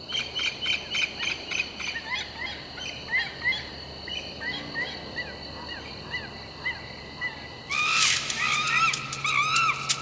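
Birds chirping in short repeated calls. About eight seconds in, louder calls join a quick run of sharp clicks or splashes.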